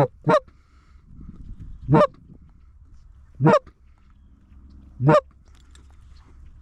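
Loud goose honks: two quick honks at the start, then single honks about every second and a half, five in all.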